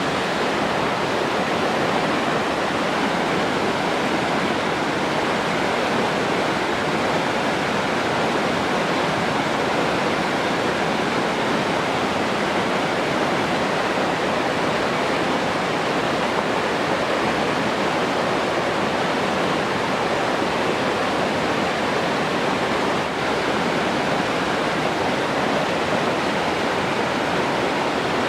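Steady rushing water, an even unbroken roar of flowing water like a waterfall or fast stream.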